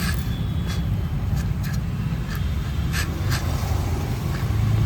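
Kawasaki Z250's parallel-twin engine running with its exhaust removed: a steady low rumble, with a few sharp clicks over it.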